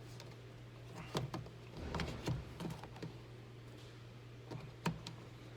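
Scattered light clicks and knocks of tools and parts being handled in a car door: a cluster of several in the first half and one sharp click near the end, over a steady low hum.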